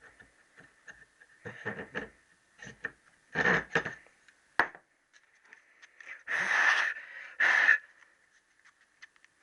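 Hand reaming of a motorcycle conrod's little-end bush, with short metal scrapes and a sharp click about halfway. Two louder rushing hisses follow, between about six and eight seconds in.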